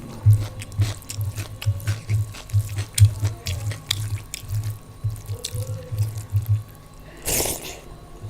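Close-up chewing of a mouthful of food, with a steady jaw rhythm of about three to four chews a second and wet mouth clicks. The chewing stops about six and a half seconds in, followed by a short, louder rustling noise.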